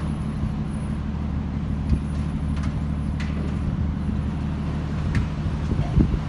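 Steady low engine hum of a motor vehicle, with a few knocks and clicks over it, the loudest about 6 seconds in.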